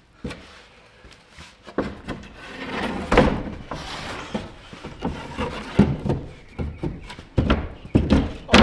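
Wooden board knocking and thudding as it is worked into place in a wall gap: a run of irregular knocks and thumps, denser and louder from about three seconds in.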